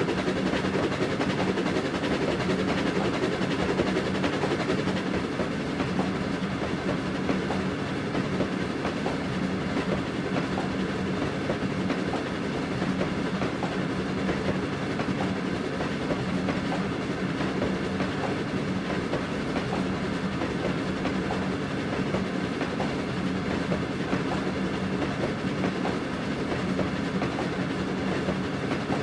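Railway train running steadily along the track: a continuous rumble with the wheels clicking over the rail joints.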